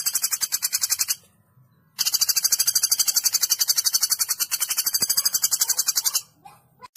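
Woodpecker call, a rapid rattling series of high notes at about ten a second. It breaks off for a moment about a second in, then runs on and stops shortly before the end.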